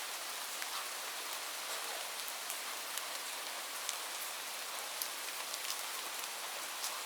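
Light rain falling steadily, an even hiss with scattered individual drops ticking.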